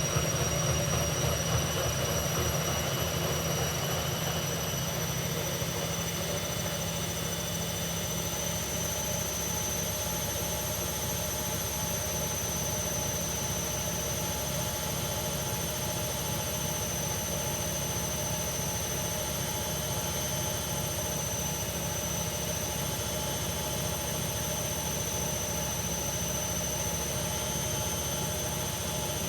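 Hoover Ecologic Computer Washer 1300 washing machine spinning at a steady high speed, its drum rumbling under a high, steady motor whine.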